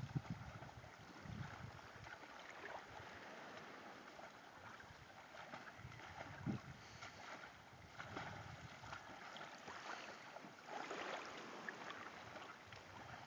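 Water splashing and lapping as a person and a curly coated retriever swim, with sharper splashes about six and a half, eight and eleven seconds in.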